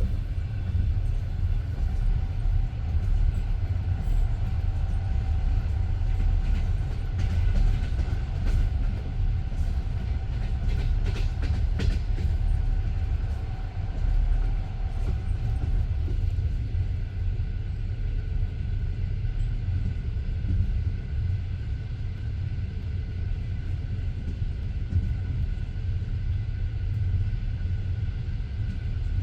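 Passenger train carriage wheels rolling on the rails, heard from aboard the train: a steady low rumble of wheel and track noise. A run of clicks from the wheels comes around the middle, and a faint steady whine stops about halfway through.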